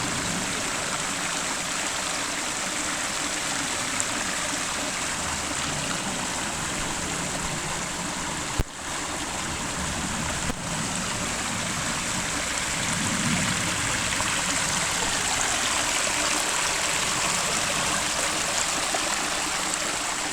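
Creek water running steadily over rocks, a rain-fed desert brook. There is a sharp click about eight and a half seconds in and a fainter one two seconds later.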